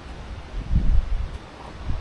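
Wind buffeting the microphone in low rumbling gusts, strongest about a second in.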